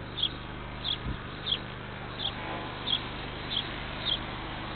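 A small bird chirping over and over, a short high chirp about every two-thirds of a second, over a steady low hum, with one soft thump about a second in.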